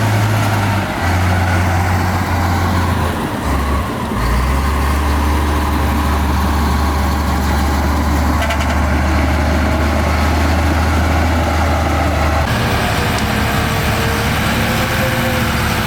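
Diesel engines of heavy earthmoving machinery running under load: a deep, steady drone that steps down in pitch during the first few seconds and changes again about three-quarters of the way through.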